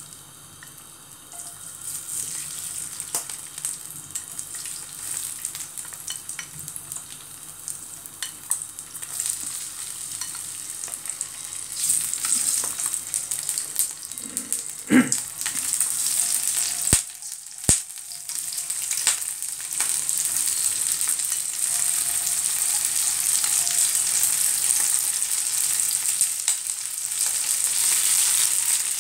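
Whole raw prawns sizzling in hot oil in a nonstick wok, the sizzle growing louder as more prawns go into the pan. A few sharp clicks sound along the way.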